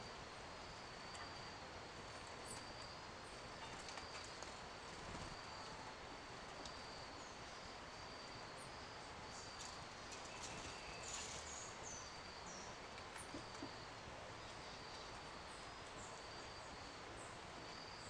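Quiet garden ambience with a high, thin note repeating about once a second. A few short, high bird chirps come in a cluster around the middle.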